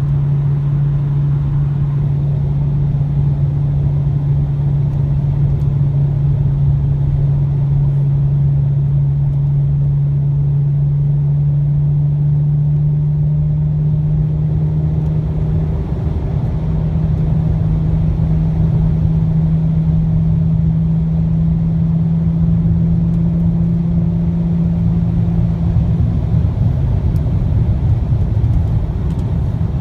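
Exhaust of a 2003 Lexus GS300's inline-six with the muffler deleted, a steady low drone at highway cruise over road noise. The drone steps slightly higher about halfway through and breaks up a few seconds before the end.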